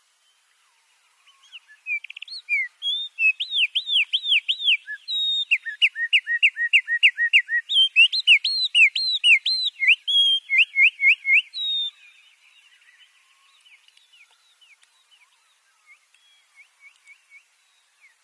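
Songbirds singing: after a moment of quiet, a loud run of rapid, repeated whistled notes, with two or more birds overlapping in the middle. The song breaks off about twelve seconds in, and only faint, scattered chirps follow.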